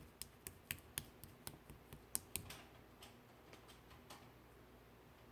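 Slime being pressed and squeezed by hand, making sharp little popping clicks, about four a second at first, then thinning out after a couple of seconds.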